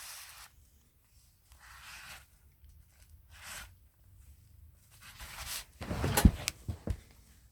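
Handling noise from a hand-held railway lamp: four brief rustling swishes, then a few sharp clicks and knocks about six seconds in, the first of them the loudest.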